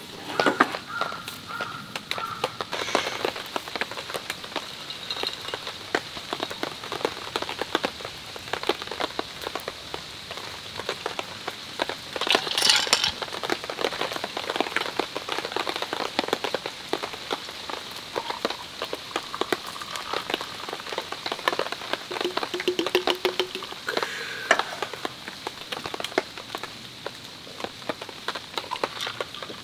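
Steady rain pattering on a tarp overhead, a dense, even spatter of drops. About halfway through comes one short, sharp rush of noise.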